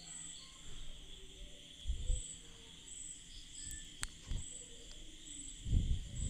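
Wheat dosa sizzling faintly in oil on a dosa griddle, with a metal spatula scraping and sliding under it near the end. A faint high chirp repeats about every second throughout.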